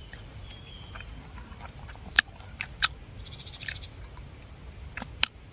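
A person chewing pieces of a raw wild bee nest, with a few sharp mouth smacks: one about two seconds in, another soon after, and two close together near the end.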